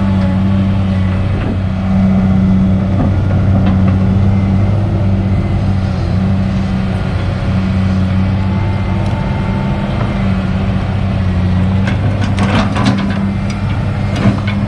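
Kobelco SK200 excavator's diesel engine running steadily under work, with a few sharp knocks near the end.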